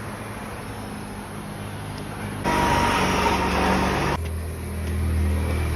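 A motor vehicle's engine running nearby: a steady low hum, then a loud rushing stretch in the middle that cuts off abruptly, followed by a strong low drone.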